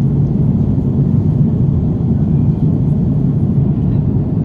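Steady low rumble of an Airbus A330-343 airliner in flight, heard inside the passenger cabin: engine and airflow noise at an even level.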